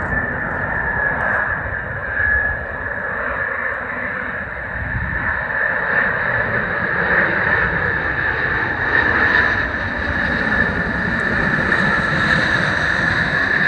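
Airbus A350's Rolls-Royce Trent XWB turbofan engines running loud at takeoff power, a steady whine over heavy rushing noise that grows brighter and hissier toward the end.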